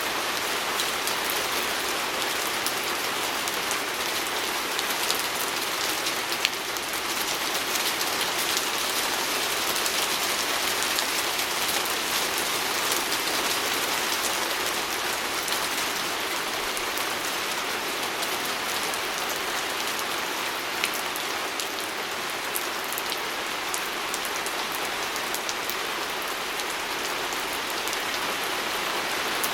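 Steady rain falling on a window, a dense even hiss with many small drop ticks and a few louder taps.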